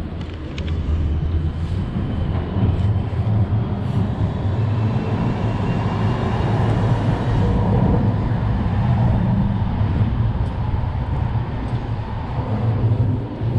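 Strong wind buffeting the microphone: a loud, uneven low rumble over street traffic noise.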